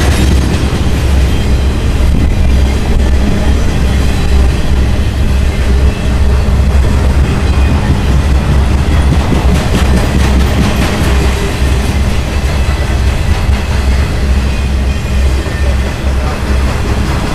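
BNSF intermodal freight train of trailers on flatcars passing close by, with a loud, steady rumble and the clatter of wheels over the rails. A coal train of hopper cars is crossing the bridge above at the same time.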